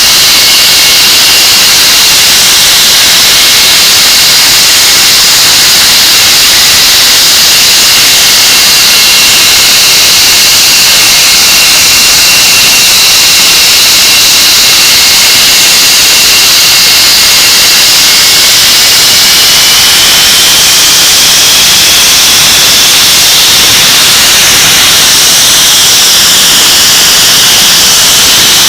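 English Electric Lightning's Rolls-Royce Avon turbojet running at power on a ground run: loud, steady rushing noise with a high whine, which rises in pitch about twenty seconds in as the engine is brought up in power.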